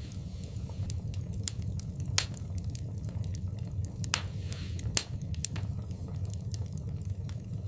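Wood fire crackling in a fireplace: scattered sharp pops and snaps over a steady low rumble, with a louder pop about two seconds in and another near five seconds. A brief hiss comes a little after four seconds.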